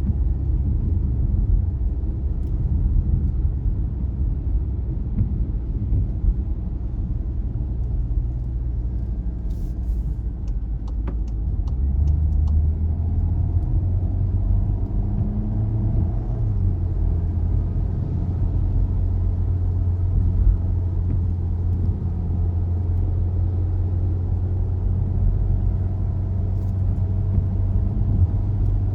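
A car driving, with a steady low rumble of engine and road noise. About twelve seconds in, the low hum steps up in pitch, and just before that there is a short run of faint clicks.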